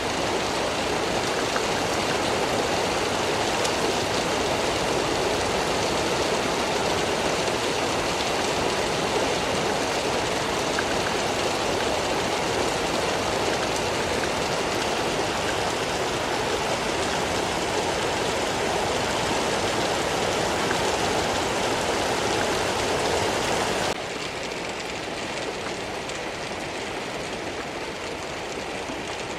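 Steady rain falling. It drops suddenly to a softer level near the end.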